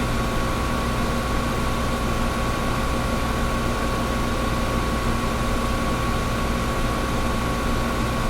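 Air conditioner running steadily: an even rush of blown air with a constant hum and a faint steady whine underneath.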